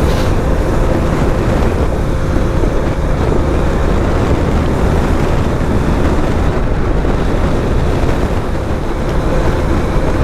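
Motorcycle riding at a steady cruising speed: a constant rush of wind over the microphone with the engine and road noise running underneath.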